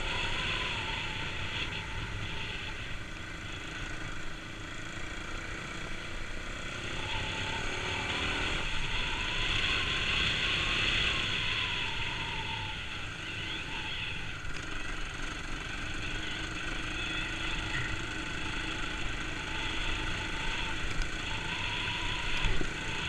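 Kawasaki KLX250S single-cylinder four-stroke engine running as the dirt bike is ridden, its pitch rising and falling with the throttle, over a steady rushing noise.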